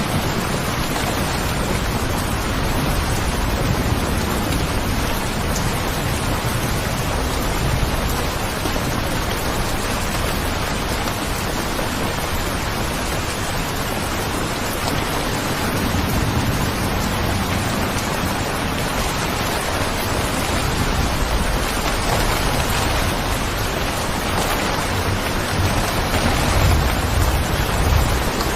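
Steady, even rainfall, with a low rumble swelling up now and then, most strongly near the end.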